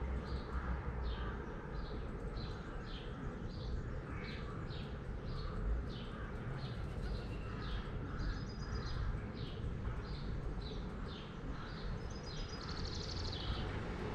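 A songbird repeating a short downward-sliding chirp about twice a second, with a few higher buzzy notes mixed in, over a steady low rumble of background noise.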